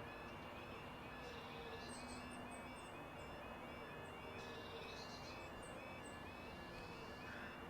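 Small birds chirping in quick clusters of short high calls, over a faint steady outdoor background noise and a faint repeating pattern of short high tones.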